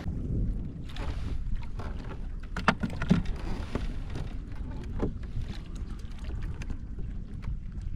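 Wind rumbling on the microphone, with a few sharp knocks a little under three seconds in, just after three seconds and about five seconds in.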